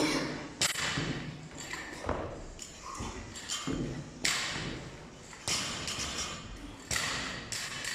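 Irregular knocks and thuds, roughly one a second, each sharp at the start and dying away quickly.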